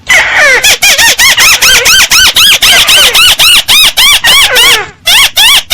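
Paddy-field crake (burung tikusan sawah) calling: a fast, loud run of short squealing notes, about four a second, each rising then falling in pitch. The run pauses briefly near the end and then starts again.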